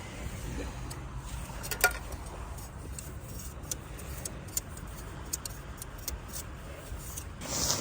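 Scattered light clinks and clicks of small metal camping gear being handled and packed away, over a low steady rumble.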